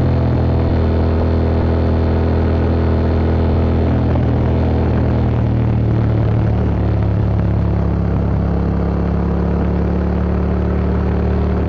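2025 Yamaha MT-07's 689 cc CP2 parallel-twin engine running through an Akrapovic Racing Line exhaust, held at a steady engine speed with a deep, even exhaust note.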